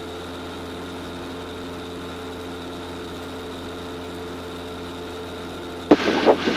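Single-engine light aircraft's piston engine droning steadily at low power in the cockpit, holding the plane just off the runway in slow flight.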